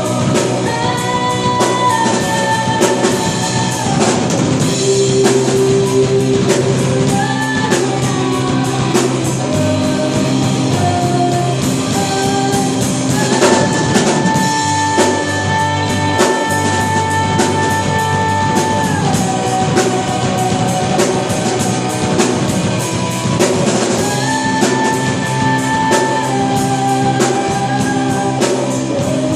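Live band music: a rock cover with drum kit and guitar under long held melody notes that slide between pitches.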